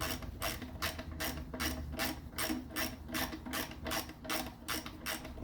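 Socket ratchet clicking in quick, even strokes, about two and a half a second, as it is swung back and forth to back out 10mm bolts on an engine.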